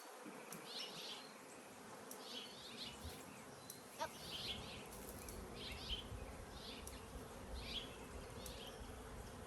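Honeybees buzzing in a steady hum around an opened hive during a frame inspection, with a repeated high chirp about once a second behind them.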